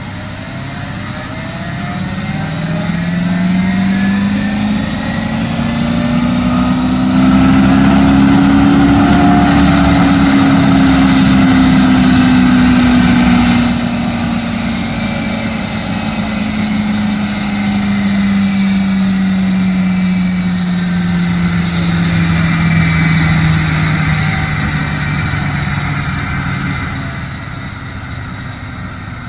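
Wacker ET65 mini excavator running while the Indeco IMH 5 mulcher head's rotor spins up: a hum rises steadily in pitch for about seven seconds, then slowly falls again as the rotor winds down. The machine is loudest for several seconds around the top of the rise, then drops back.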